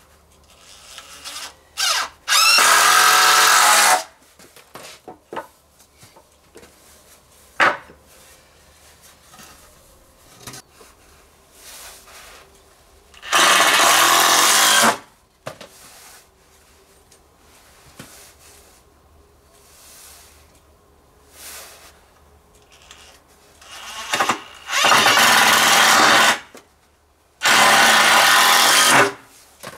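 Electric drill running in four short bursts of about a second and a half to two seconds each, with a brief rising whine as it starts at the first one. Small knocks and clicks come between the bursts.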